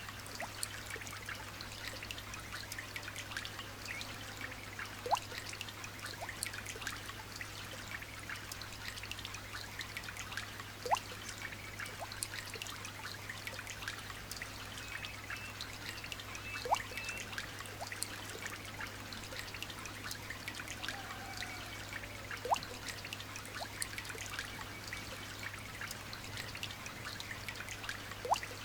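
Light rain falling steadily, a dense patter of small drops and trickling water, with a louder single drop plinking about every five or six seconds.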